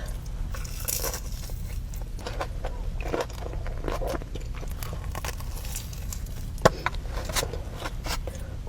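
Close-up eating sounds: crunchy bites and chewing, with irregular crackles and clicks and one sharp, loud snap about seven seconds in.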